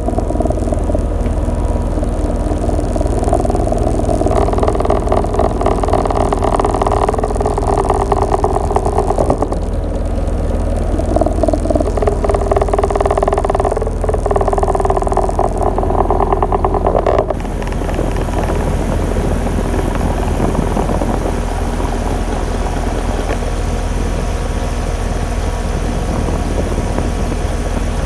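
Payne central air conditioner's outdoor unit running with a steady low hum and fan noise. About two-thirds of the way through, the sound changes suddenly, while the hum carries on.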